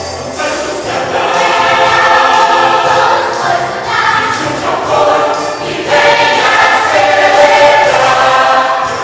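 Church choir singing a Christmas song in full voice with instrumental accompaniment, in long held phrases, a new loud phrase coming in about six seconds in.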